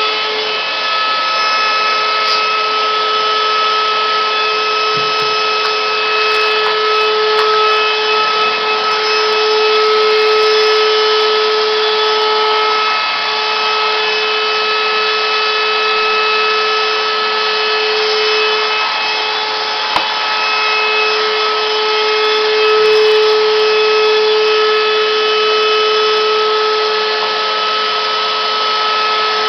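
Vacuum cleaner running steadily, its motor giving a constant droning whine, with one short click about twenty seconds in.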